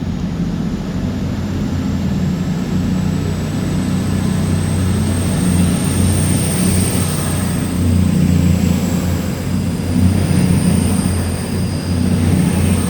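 A steady low engine hum, with a thin high whine above it that rises slightly and then fades near the end.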